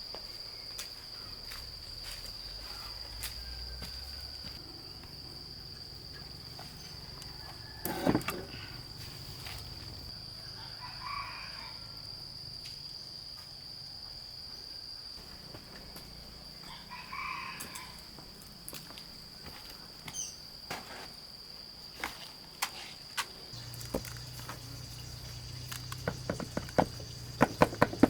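Steady high-pitched drone of crickets or similar insects, with a chicken calling twice in the middle. Scattered knocks and clicks cut through, the loudest about a third of the way in, and a quick run of clicks near the end.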